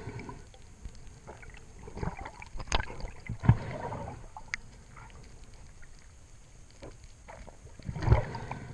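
Water sloshing and splashing with scattered sharp knocks and clicks, swelling loudest about two, three and a half and eight seconds in.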